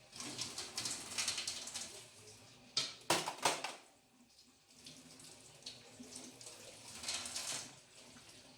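Tap water running and splashing in uneven surges as things are rinsed under it. The loudest splash comes about three seconds in, with another surge near the end.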